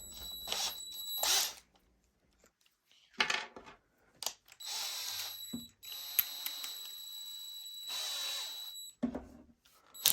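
Electric drill drilling a hole into a scrap-wood board: a short burst about half a second in, then a steady run of about four seconds with a high motor whine.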